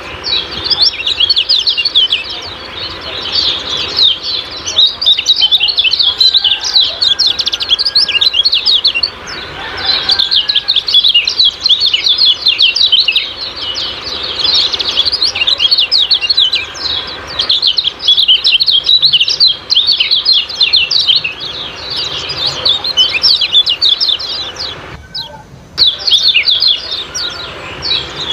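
Kecial kuning songbird calling in a rapid, continuous stream of high, sharp "ciak-ciak" chirps, with one short break about 25 seconds in. This is a lure call used to provoke caged birds into singing.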